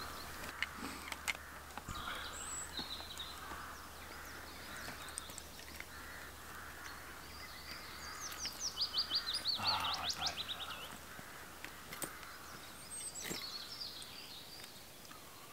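Small songbirds singing. The clearest is a quick trill of repeated high notes about nine seconds in, over a soft steady outdoor hiss, with a few faint clicks.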